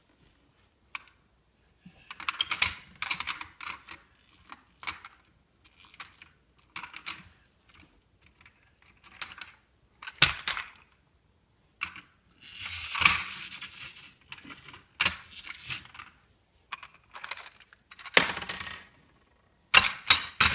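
Irregular bursts of clattering and clicking, like small hard objects knocking and rattling together, separated by short quiet gaps.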